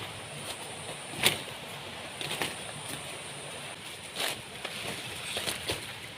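A few sharp knocks or snaps, the loudest about a second in and the rest spread through the remaining seconds, over a steady outdoor hiss with a thin, high, steady whine.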